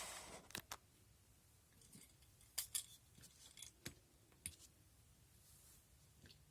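Faint scattered clicks and small taps of a 1/64-scale die-cast toy trailer being handled and hitched onto a model pickup truck, after a brief rustle at the start.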